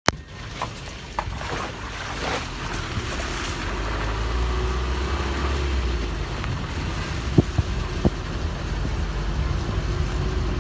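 Vehicle driving along a road, a steady low engine-and-road rumble that swells slightly midway, with two short sharp knocks about seven and eight seconds in.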